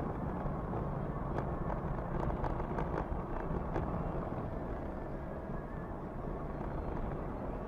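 Steady rumble of a vehicle on the move, with a few faint clicks.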